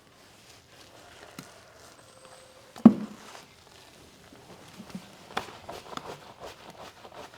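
Scattered light knocks and taps, with one loud dull thump about three seconds in, then a quicker run of light taps near the end.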